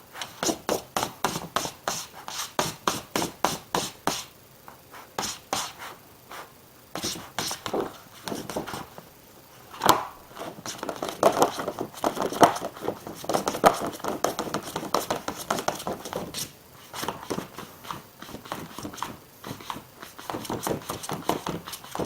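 Quick, repeated scratching and scraping strokes, regular at about three a second for the first few seconds, then irregular with louder bunches near the middle.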